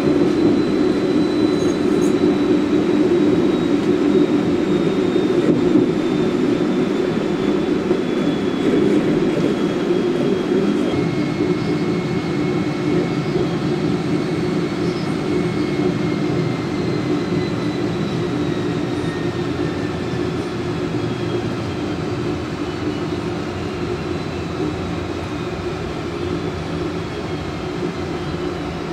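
On-board sound of a modernised SNCB AM80 electric multiple unit under way: a steady running rumble with a thin motor whine that slowly falls in pitch. A second, lower whine joins about a third of the way in, and the whole sound gradually gets quieter.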